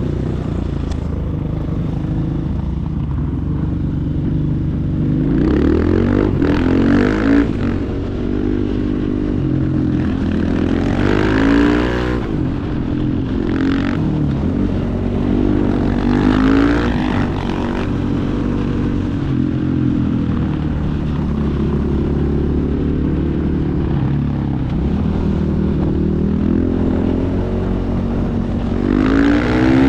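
Supermoto motorcycle engine running hard, revving up in rising surges several times and dropping back between them as the bike accelerates.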